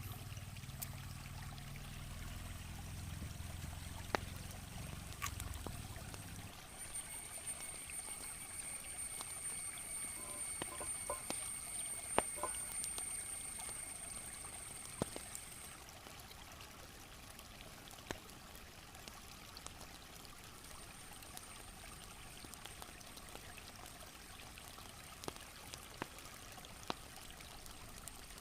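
Water trickling steadily, with a low rumble over the first few seconds. A thin, high-pitched steady whine joins for about eight seconds in the middle, and light clicks are scattered throughout.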